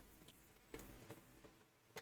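Near silence: room tone, with a few faint clicks.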